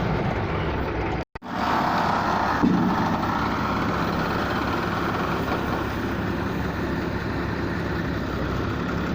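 Engine of heavy road-construction machinery running steadily, with a sudden brief dropout a little over a second in and a louder stretch just after it.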